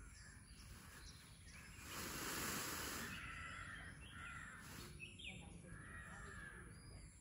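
Harsh, crow-like bird calls over outdoor ambience, with a louder rush of noise lasting about a second, about two seconds in.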